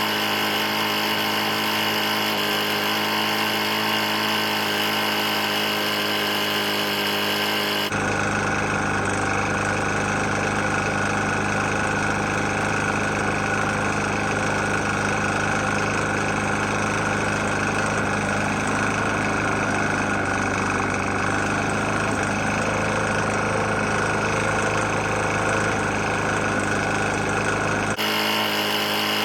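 Briggs & Stratton E450-series single-cylinder lawn mower engine running steadily at speed. The engine is knocking pretty bad. Its tone changes abruptly about 8 seconds in and again near the end.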